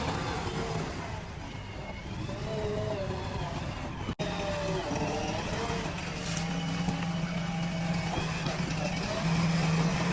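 A machine's engine running steadily, with people talking over it; the sound drops out for an instant about four seconds in.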